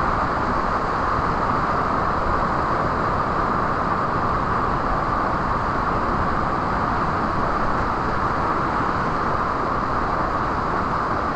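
Waterfall and fast-flowing water rushing as a loud, steady, unbroken noise.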